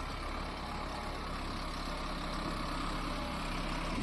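Hindustan 60 tractor's diesel engine running steadily, a low drone that grows slightly louder.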